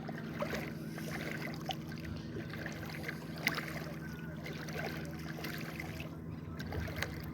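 A motorboat's engine running steadily, with water noise and small knocks around the hull.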